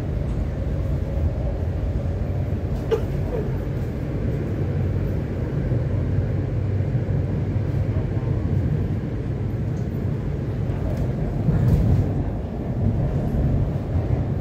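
Steady low rumble inside the cabin of an MTR C-Train electric multiple unit running along the track.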